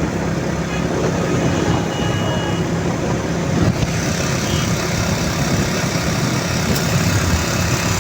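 A moving road vehicle: a steady low engine hum under continuous rushing road and traffic noise.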